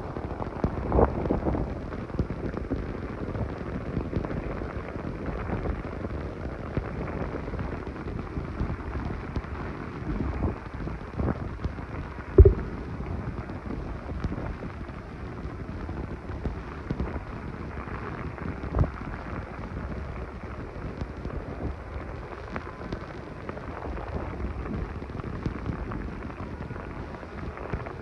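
Heavy hurricane rain with gusting wind, as a steady hiss and rumble. A few sharp knocks break through, the loudest about halfway through.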